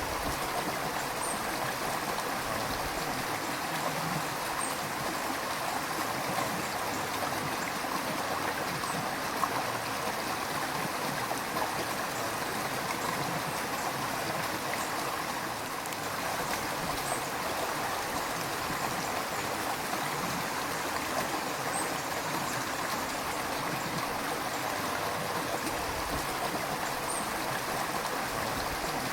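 River water flowing steadily: an even, continuous rush of water with no breaks.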